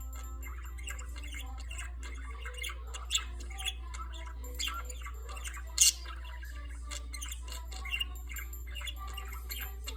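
Budgerigar warbling: a continuous run of chirps, clicks and squawks, with one sharp, loud squawk about six seconds in, over a steady low hum.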